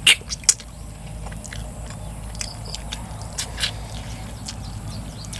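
Close-up eating sounds: irregular wet lip smacks and chewing clicks as pieces of stir-fried eel are bitten and chewed, the loudest right at the start.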